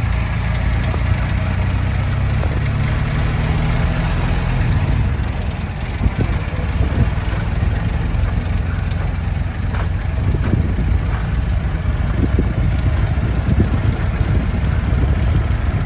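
Vehicle engine running steadily with a low hum. The hum holds one pitch for the first few seconds, then turns rougher.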